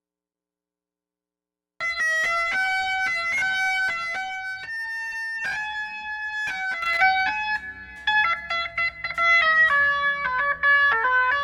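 Silence for nearly two seconds, then a guitar plays a melody of single plucked notes, run through an HBK TSX 500-series tape saturation module.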